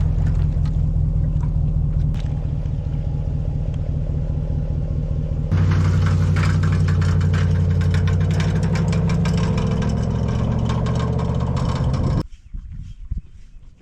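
An engine running steadily. It gets louder and brighter about five seconds in, its pitch rises slightly, and it cuts off sharply near the end.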